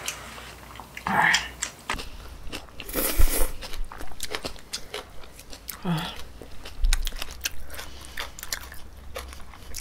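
Close-up chewing and biting of pork belly, with small wet mouth clicks and smacks.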